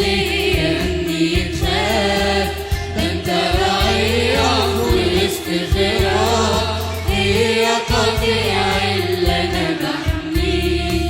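Choir singing an Arabic Christian hymn live, with instrumental backing under the voices.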